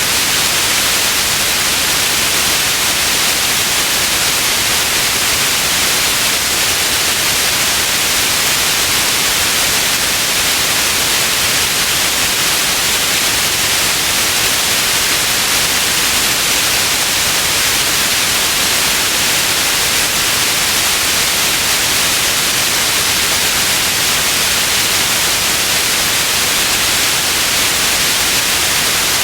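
Steady white noise: an even, unchanging hiss, strongest in the high range, with no breaks or events.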